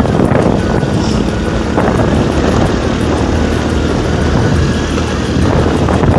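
Motorcycle engine running steadily while riding, mixed with wind rushing over the phone's microphone.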